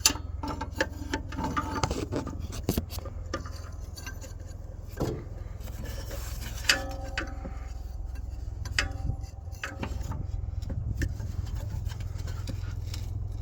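Hand tools working on the engine's mounting bolts: scattered metallic clicks, knocks and scraping as a wrench is fitted and worked on the bolts, with a few short metal rings near the middle, over a steady low rumble.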